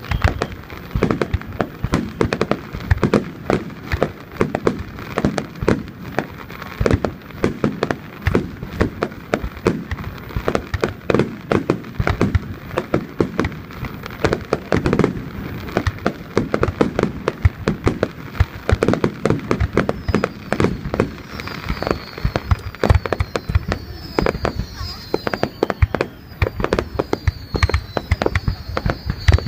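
Fireworks display at its height: a dense, unbroken run of aerial shell bursts, booms and crackles going off in quick succession. From about two-thirds of the way in, a run of short falling whistles sounds over the bursts.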